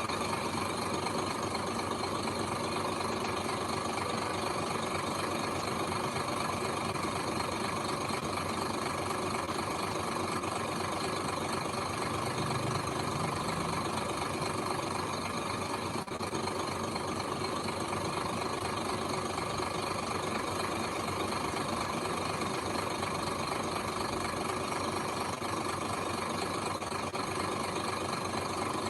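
Heavy machine's engine running steadily at a constant speed, an even hum with no let-up.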